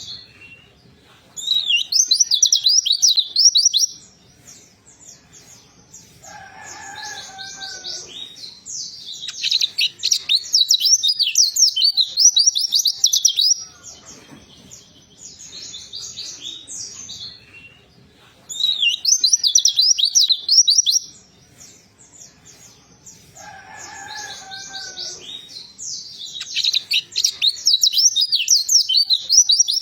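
Pleci (white-eye) singing in repeated loud bouts of rapid, high twittering song, each a few seconds long, with quieter twittering between them. A lower, falling whistle comes in twice.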